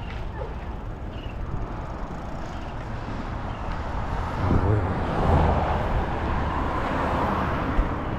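Road traffic heard from a moving bicycle: a car passes, its tyre and engine noise swelling about halfway through and easing off near the end, over a steady low rumble of wind on the microphone.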